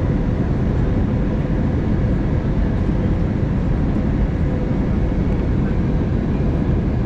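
Steady in-flight cabin noise of an Airbus A320neo during descent: airflow and engine noise heard inside the cabin, a dense low hiss with a faint steady hum and no change in level.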